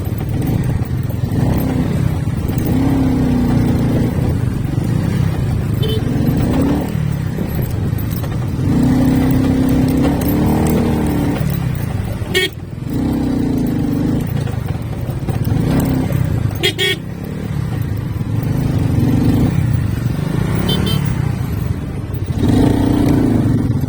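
Motorcycle engine running under way with road and wind rumble, its pitch repeatedly rising and falling as the throttle is opened and eased, several times.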